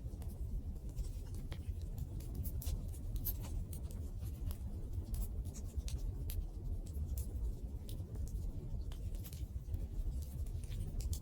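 Wood fire (takibi bonfire) burning: a steady low rumble of flames with frequent small, irregular crackles and pops.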